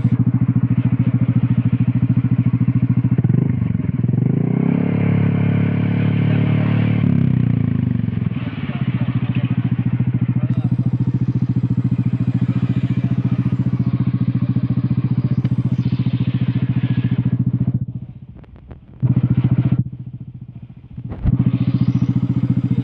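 Small single-cylinder Yamaha four-stroke running through an F2racing stainless-steel hexagon short exhaust, a deep, mellow bass note at idle. It is revved once, rising and falling a few seconds in. The sound drops away sharply twice near the end.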